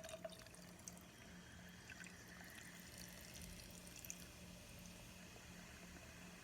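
Coke pouring and fizzing faintly: a small click at the start, then liquid running and the fine crackle of carbonation bubbles.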